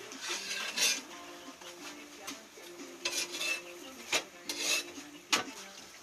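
A metal utensil scraping and clinking against a hot griddle or pot while roti is worked and turned: several short scrapes with a few sharp clinks in between.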